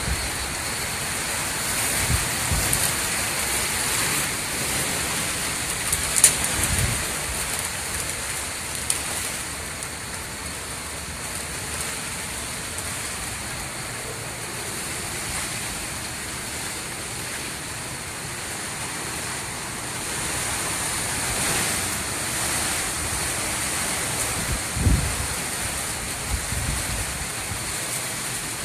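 Hurricane Irma's wind and rain: a steady rushing hiss, with a few brief low thuds about 2, 7 and 25 seconds in.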